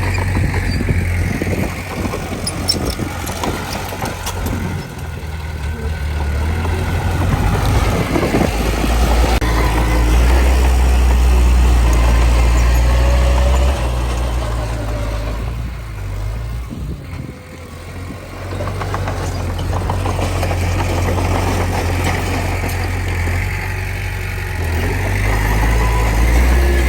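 Heavy diesel engine of earthmoving machinery running with a low drone that swells and eases as the load changes, dropping off briefly a little past halfway.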